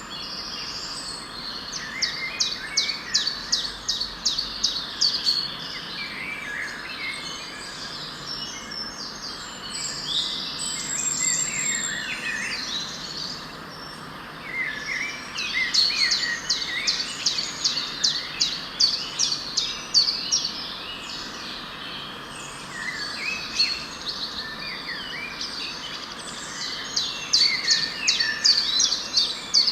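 Several birds singing and calling at once, with runs of fast repeated chirps coming three times, over a steady background hiss.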